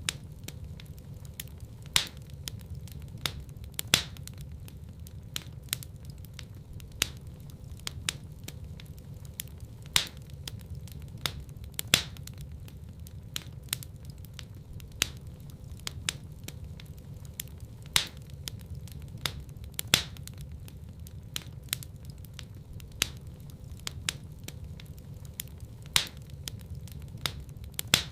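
Wood fire in a fireplace crackling: frequent sharp pops and snaps, a few louder ones every couple of seconds, over a steady low rumble of the flames.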